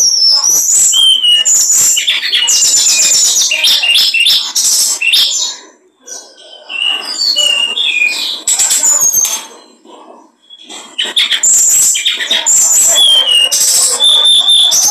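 Small songbird singing loudly at full power: rapid runs of high chirps and short whistled glides, with brief lulls about six and ten seconds in.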